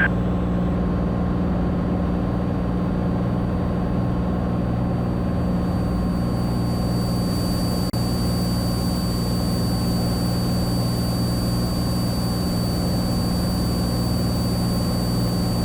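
Cessna 182T's six-cylinder Lycoming engine and propeller droning steadily in cruise, heard in the cockpit, with one brief click about halfway through.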